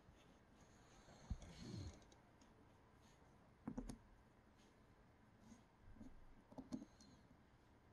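Faint clicks and light taps of small extruder parts and tools being handled during disassembly, in three short clusters: about a second in, near the middle, and near the end.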